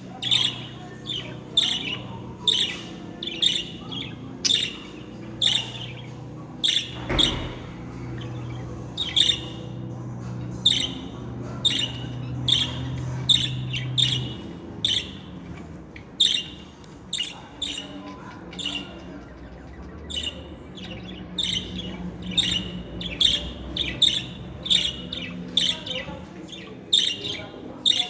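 Budgerigars chirping and squawking in a long run of short, sharp, high calls, one or two a second with brief pauses. A low hum sits underneath, and there is a single knock about seven seconds in.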